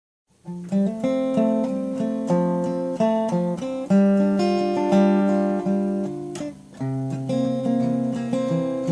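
Acoustic guitar strumming chords as the song's instrumental introduction, starting about half a second in, with a short drop in level a little over six seconds in before the chords pick up again.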